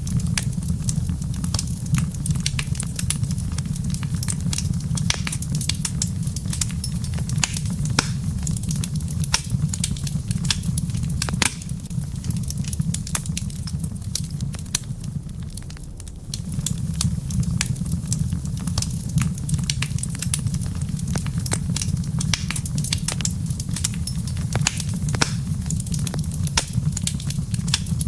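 Wood fire crackling with frequent sharp pops and snaps over a low, steady rumble. The rumble drops away for a few seconds about halfway through, then comes back.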